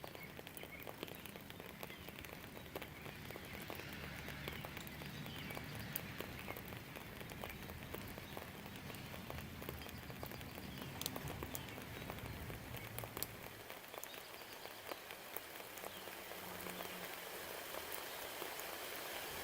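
Steady rain falling, with many single drops ticking on a nearby surface. A low rumble sits underneath and drops away about two-thirds of the way through.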